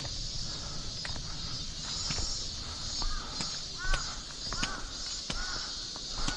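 A crow cawing about five times in quick succession, starting about three seconds in. Underneath runs a steady high-pitched insect drone, with the clicks of a hiker's footsteps on the trail.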